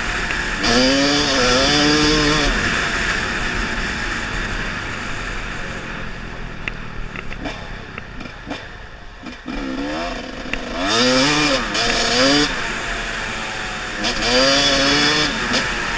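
Trail dirt bike engine revving hard in three bursts, rising and falling in pitch, dropping back to a lower, quieter run in the middle with a few sharp knocks.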